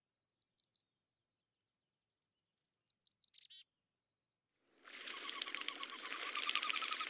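Birds calling: two brief clusters of high, falling chirps, then, about two-thirds of the way in, a dense chorus of many calls sets in and carries on.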